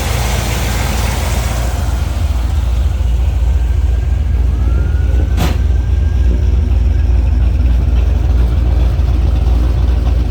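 Fuel-injected 383 stroker small-block V8 idling steadily with a deep, even rumble through long-tube Hooker headers and Flowmaster exhaust. There is one short click about five seconds in.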